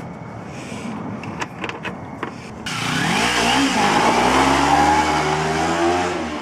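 Scattered clicks, then an abrupt switch to a vehicle engine revving, its pitch rising and falling, from about three seconds in.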